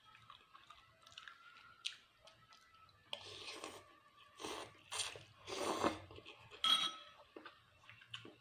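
A person chewing and crunching food close to the microphone: faint small clicks at first, then a run of louder crunching bursts in the middle.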